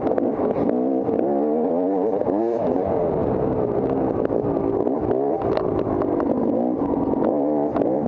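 Off-road dirt bike engine revving up and down constantly as it is ridden hard over rough trail, with scattered clicks and clatter from the bike.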